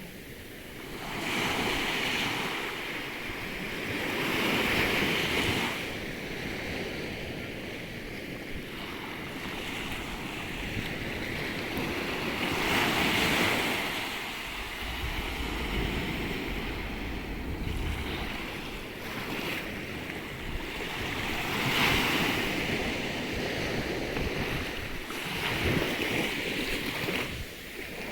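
Sea surf breaking and washing on the shore, swelling louder every several seconds, with wind buffeting the microphone.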